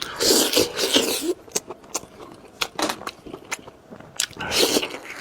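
Close-miked eating of a spicy lamb chop: chewing with sharp wet mouth clicks and crunches, and two longer bursts of biting and tearing, one at the start and one near the end.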